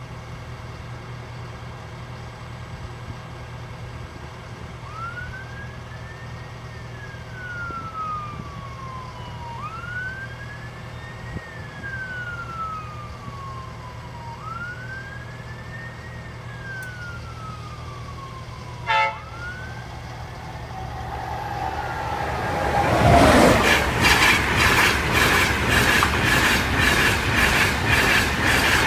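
Level crossing alarm sounding a tone that rises quickly and falls slowly, about every four and a half seconds. A short horn blast comes about two-thirds of the way in. Then a high-speed electric passenger train rushes past, loud, with a falling whine and a rhythmic clatter of its wheels.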